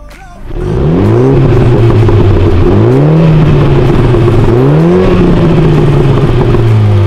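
Mini F56 hatch's turbocharged four-cylinder engine revving hard on the spot: the exhaust note jumps up three times, about every two seconds, holding high between blips.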